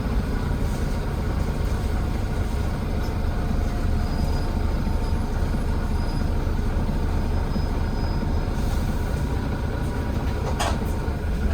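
Volvo B9TL bus's Volvo D9B diesel engine running steadily from the rear seats, a deep rumble with a faint whine over it; a short sharp hiss comes near the end. It is one of the YJ58 batch that has started making weird noises, which the uploader wonders may mean it is on its last legs.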